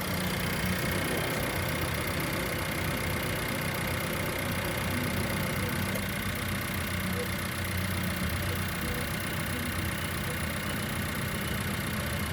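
2018 Suzuki Vitara engine idling steadily, run to test its condition as a used engine.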